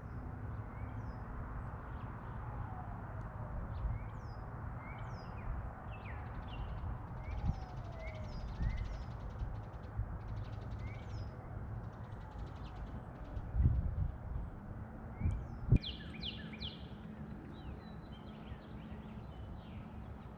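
Small songbirds chirping: short, repeated falling notes over a steady low background rumble. Two sharp thumps come about two-thirds of the way through, followed by a quick cluster of louder chirps.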